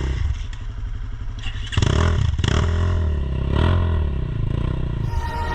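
Dirt bike engine running, ticking over with a rapid popping beat, then revved up about two seconds in, its revs rising and falling.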